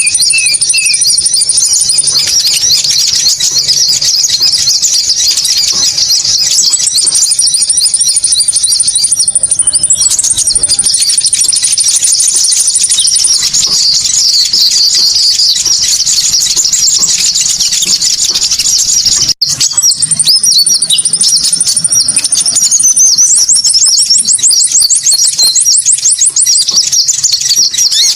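Recorded birdsong used as a lure for the konin bird: dense, high-pitched chirping and twittering with long, thin, very high trills over it and a rapid trill near the end. The sound drops out for an instant about two-thirds of the way through, like an edit in the recording.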